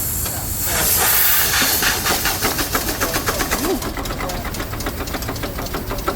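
Steam tractor's engine running: steam hissing, then from about two seconds in a fast, even beat of the engine's strokes.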